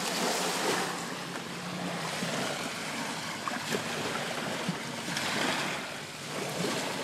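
Small waves washing on a beach, with wind on the microphone and a faint low hum in the first couple of seconds.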